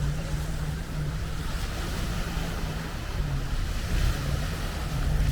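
Sea waves washing on the shore, with wind buffeting the microphone and a faint low hum underneath.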